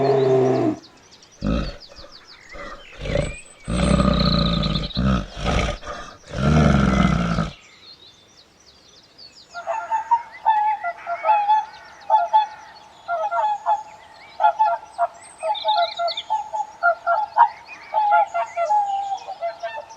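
Animal calls: several loud, low-pitched cries in the first seven seconds, then, after a short pause, a long run of rapid chirping calls.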